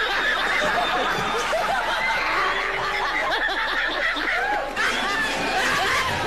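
Several people laughing and snickering together, a steady stretch of overlapping laughter.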